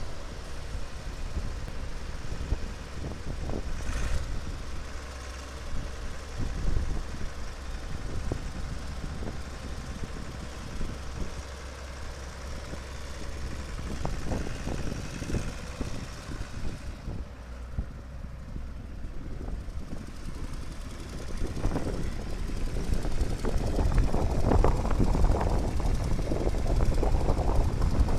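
Allis-Chalmers 7000 tractor's six-cylinder diesel engine idling steadily, with wind on the microphone. The sound grows louder and rougher about three quarters of the way through.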